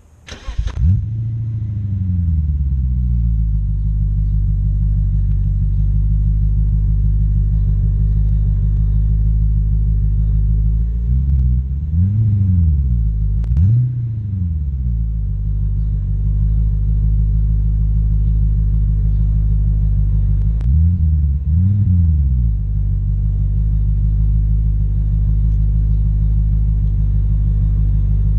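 BMW 545i's 4.4-litre V8 starting through a Magnaflow exhaust: it catches just after the start, flares up and settles to a steady idle within a few seconds. It is blipped in a few quick revs near the middle and twice more later, each time falling straight back to idle.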